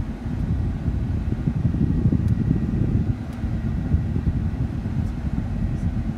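Truck driving, heard from inside the cab: a steady low rumble of engine and road noise.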